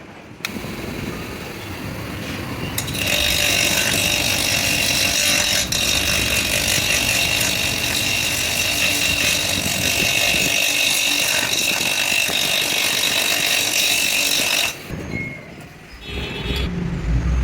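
A power tool working metal runs steadily with a high whine for about twelve seconds, starting suddenly a few seconds in and cutting off near the end. A low rumble follows just before the end.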